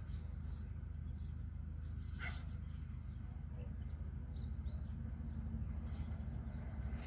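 A few faint, short bird chirps from outside, over a steady low hum.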